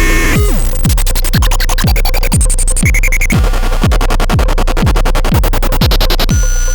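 Eurorack modular synthesizer patch built around the SATURN square-wave noise generator: glitchy electronic noise of fast clicking and buzzing pulse trains with short pitched blips, over a steady kick drum that thumps about twice a second. The noise pattern changes character about a second in, again past the middle, and near the end.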